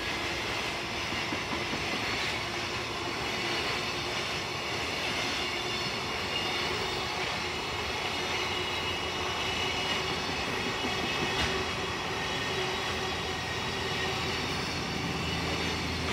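A freight train hauled by an EF210 electric locomotive running through the station, with a steady rolling noise of wheels on rail.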